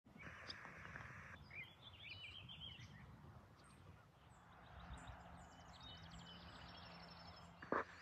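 Faint outdoor birdsong: scattered chirps in the first half, then a quick run of repeated high notes, over a low steady background rumble, with one brief knock near the end.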